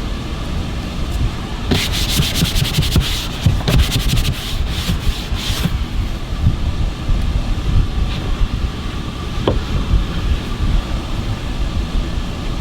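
Quick scrubbing or rubbing strokes on a surface, about four seconds of rapid scratchy strokes, then only a few more. A steady low rumble runs underneath.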